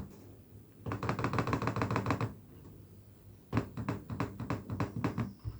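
Rapid tapping on a laptop keyboard in two quick bursts, with a pause of about a second between them.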